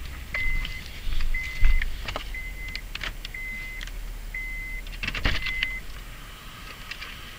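Six short electronic beeps at one steady pitch, about one a second, over scattered clicks and rattles.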